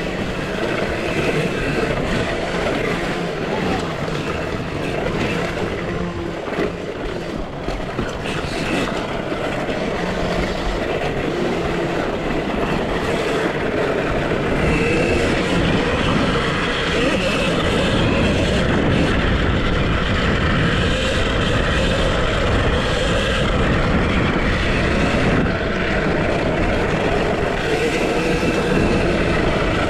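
Riding noise of a KTM SX-E5 electric mini motocross bike on an offroad track: a continuous rough rumble and rattling clatter with no engine note, getting a little louder about halfway through.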